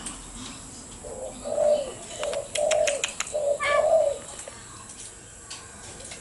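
A bird calling with a run of about five short, low notes over some three seconds, with a few sharp clicks among them.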